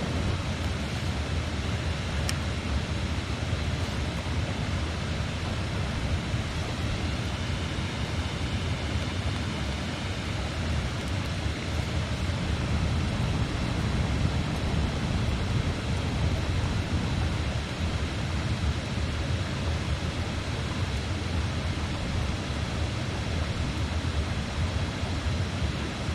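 Steady rushing of a river, with a faint crackle of a campfire about two seconds in.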